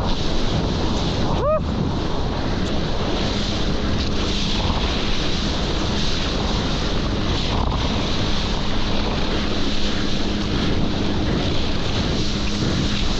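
Wind buffeting the microphone over the rush of water while surfing a jet ski's wake, with the jet ski's engine as a steady low drone beneath. A short pitched cry breaks through about a second and a half in.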